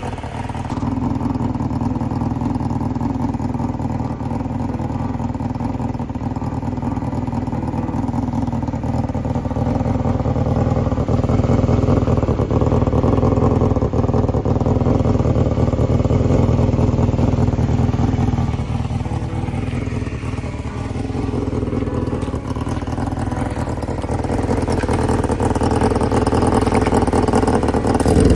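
Honda Jade 250's four-cylinder engine running, its note steady with slow swells in level: up in the middle, down briefly about two-thirds of the way through, and up again near the end.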